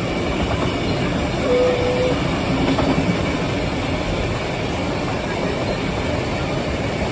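Steam-hauled passenger train running at speed, heard from aboard a carriage: a steady rumble of wheels on the rails with some clickety-clack. A short, steady tone sounds briefly about a second and a half in.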